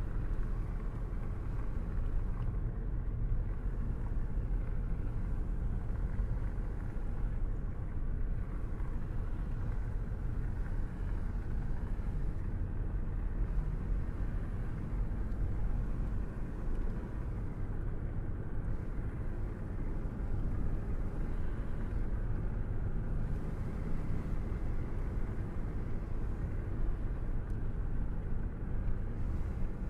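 Car driving at a steady speed: an even, low rumble of road and engine noise that runs unbroken.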